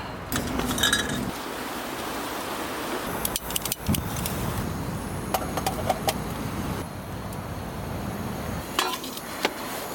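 Wind blowing steadily, with scattered light clinks of glass and metal, a few at a time, some ringing briefly.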